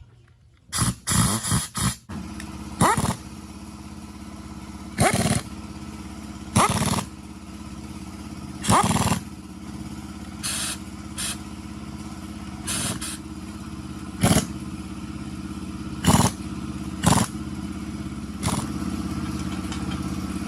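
An engine catching after a second of brief loud bursts, then running steadily with a regular low pulse, with short loud bursts every second or two over the running.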